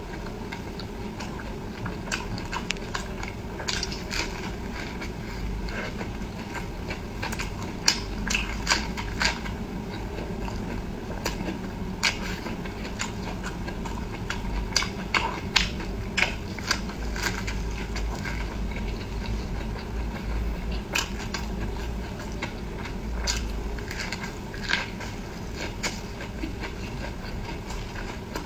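Close-miked eating: chewing and biting food, with many irregular wet clicks and smacks from the mouth over a steady low background hum.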